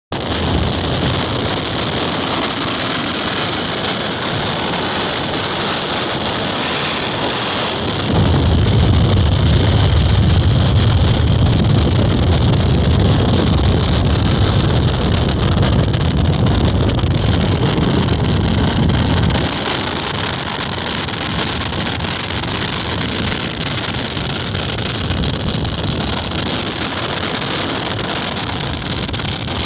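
Strong gusty wind blowing across the microphone, a steady rushing noise. A heavier gust buffets the microphone with a deep rumble from about eight seconds in until about twenty seconds.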